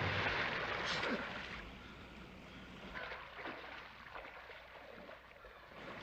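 Water washing after a splash, dying away to a faint low wash with a few small sloshes.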